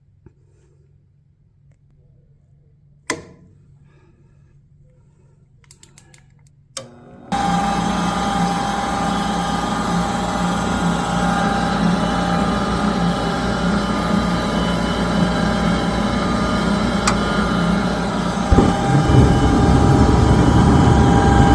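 A few clicks, then the gas furnace's draft inducer fan motor starts abruptly about a third of the way in and runs steadily with a hum. The low rumble gets louder near the end. This is the start of the furnace's ignition sequence, run as a test after the hot-surface igniter was cleaned.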